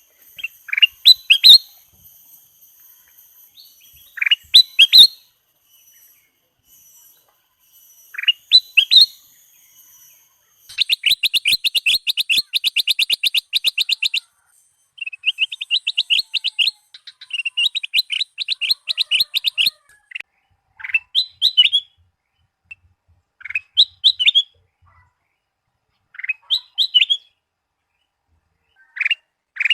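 Kutilang emas (ruby-throated bulbul) song: short, rising whistled phrases every few seconds. In the middle come long runs of rapid trilled notes, about ten a second.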